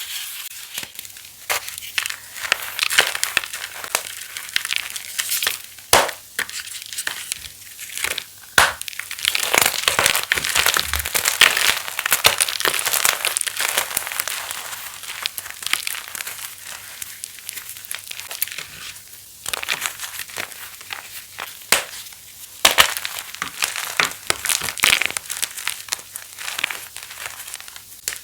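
Pasted (reformed) gym chalk being crushed: dense, continuous crisp crunching and crackling, with sharper snaps here and there as pieces break.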